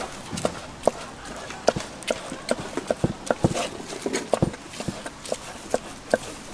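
Knife chopping food on a cutting board: irregular sharp knocks, about three a second.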